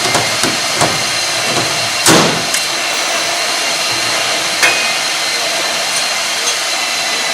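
Pop rivets being set in sheet-metal body panels. There are a few light clicks, then a sharp snap as a rivet breaks about two seconds in and a smaller snap near five seconds, all over a steady hissing shop noise.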